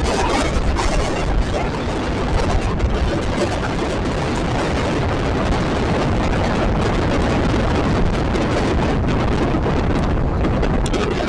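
Express passenger train running at speed: a loud, steady rumble and rush of wheels on rails with wind buffeting the microphone.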